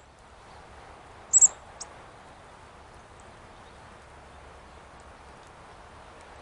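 A small songbird calling close by: two quick, loud, high-pitched notes about a second and a half in, then a softer one just after. Steady outdoor background hiss throughout.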